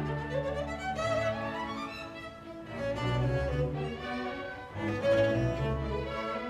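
Chamber string orchestra playing classical music, with violins over sustained low cello and bass notes.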